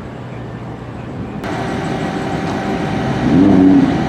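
Car engine running and revving, growing louder, with an abrupt change in the sound about a second and a half in, and the engine note rising near the end.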